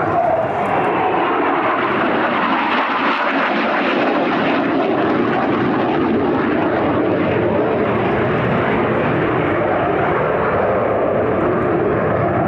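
Aircraft flying a display pass: loud, steady engine noise that rushes on without a break.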